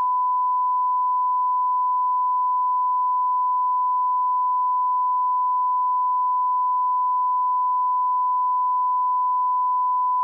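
Steady, unbroken line-up test tone at the −18 dB reference level, a single pure mid-pitched tone used for setting and checking audio levels.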